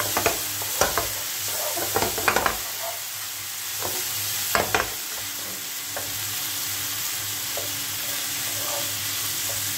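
Small cubes of chicken tikka frying in ghee in a non-stick pan, with a steady sizzle. A wooden spatula scrapes and knocks against the pan as they are stirred, several times in the first few seconds and once more just before the halfway point, after which only the sizzle goes on.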